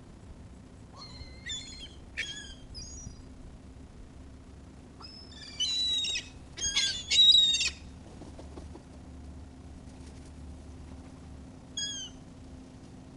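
Seagulls calling: a few short, high, sliding calls in the first three seconds, a louder run of several calls around six to eight seconds in, and one more near the end.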